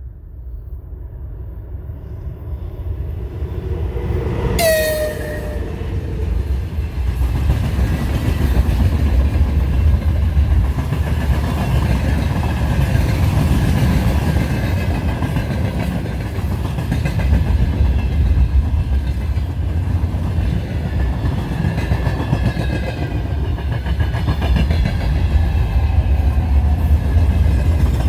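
VL10 electric locomotive hauling a freight train, coming closer and growing louder over the first several seconds. A short horn blast sounds about four and a half seconds in, then a steady rumble of wheels on rails as the train rolls by.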